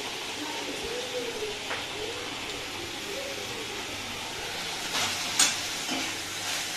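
Spice gravy for doi fish sizzling steadily in an aluminium kadai on a gas burner, with a few knocks and scrapes of a metal spatula against the pan, the loudest about five seconds in.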